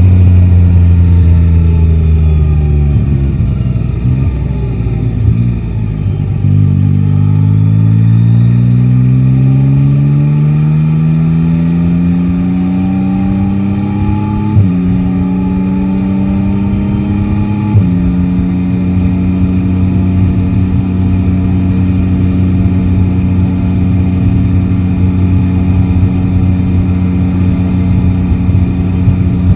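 Yamaha Tracer 9 GT's three-cylinder engine from the rider's seat. The note falls for the first few seconds as the bike slows, then rises as it accelerates, dropping twice as it shifts up a gear. It then holds steady at a constant cruising speed for the last ten seconds or so.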